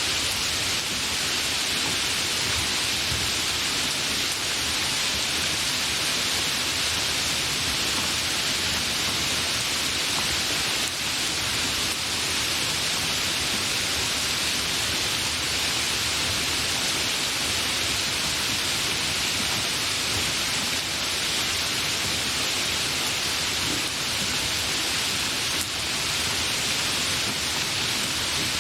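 Steady, fairly heavy rain falling, a dense even hiss with no thunder.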